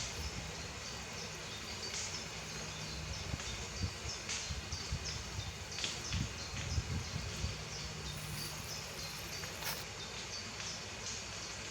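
Bonfire of cut woodland brush burning, with scattered sharp crackles and pops over a low rumble, and birds chirping faintly in the background.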